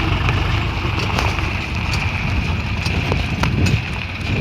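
Tractor diesel engine running with a steady low rumble, with a few sharp clicks or knocks over it.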